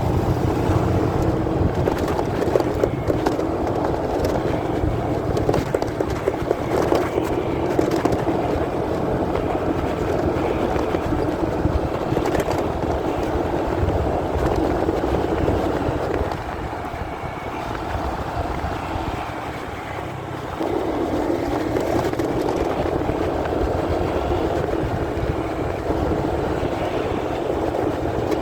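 Muffled motorcycle riding noise, engine and wind rumble heard through a pocket. It eases off for a few seconds about two-thirds of the way in, then picks up again.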